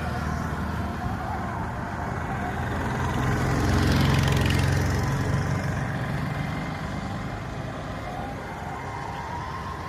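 A vehicle's low engine rumble swelling to its loudest about four seconds in, then slowly fading as it passes.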